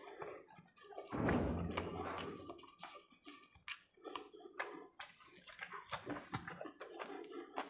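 Close-up eating sounds: wet chewing and lip-smacking clicks while a person eats khichdi by hand, with a louder low hum lasting about a second, a little over a second in.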